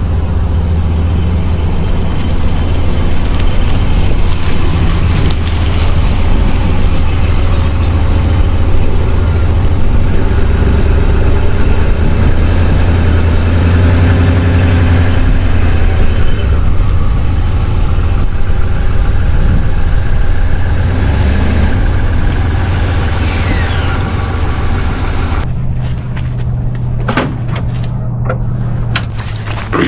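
A loud motor running steadily with a deep hum. About 25 seconds in the hum steps up slightly in pitch and a few clicks come in.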